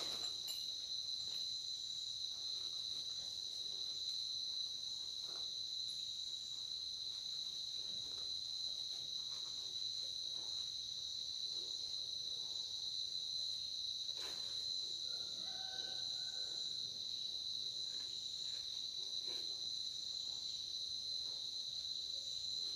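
Crickets trilling steadily in a high unbroken chorus, with faint scattered rustles and clicks of a strap being handled, and a short higher-pitched sound about two-thirds of the way through.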